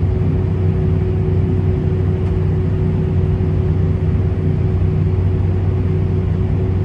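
Steady drone of an Airbus A320-232's IAE V2500 turbofan engines heard inside the passenger cabin, a deep rumble with a steady hum and a fainter higher tone held above it.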